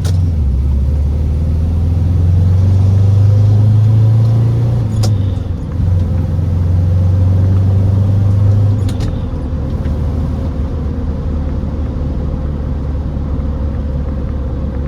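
Classic Ford Taunus V4 engine and exhaust running, a low steady engine note. The note changes about five seconds in and again near nine seconds, with light clicks at each change, then runs quieter for the rest.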